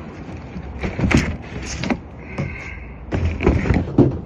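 A cell phone being set down and handled: a series of knocks and scrapes against its microphone, with a short high squeak about two seconds in.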